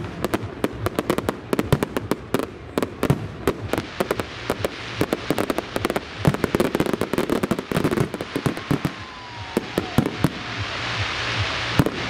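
Aerial fireworks bursting in a rapid, dense run of sharp cracks and pops. The crackle thins out about ten seconds in, while a steady hiss builds.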